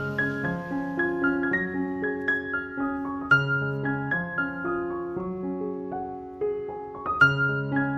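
Background music: gentle solo piano playing a flowing melody over low bass notes.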